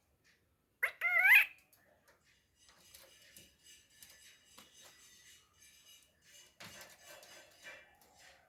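Pet parrot giving one short, loud squawk with a wavering pitch about a second in, followed by fainter scratchy chatter.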